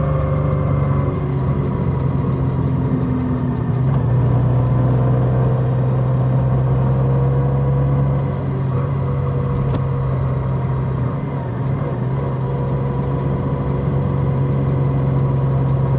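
Large motorcycle engine running steadily, a constant low hum.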